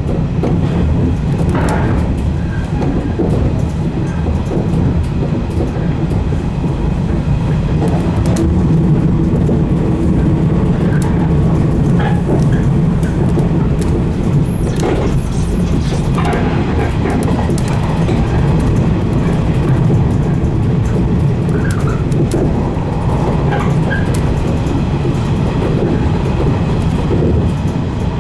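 JR 115 series electric multiple unit running along the line, heard from inside the leading car: a steady low rumble of wheels and running gear, with scattered clicks from the rails.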